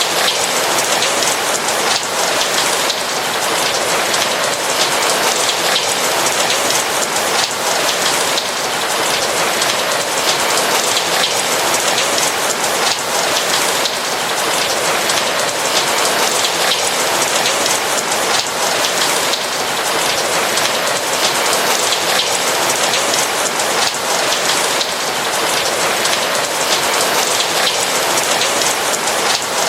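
Steady rain falling on a roof: a dense, even hiss of many raindrops at a constant level.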